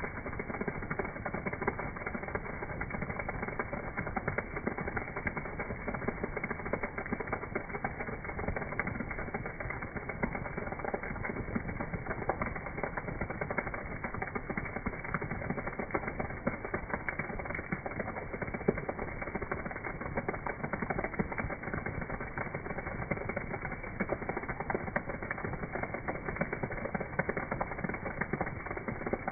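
Heavy rain falling steadily, a dense even patter of many small drop impacts.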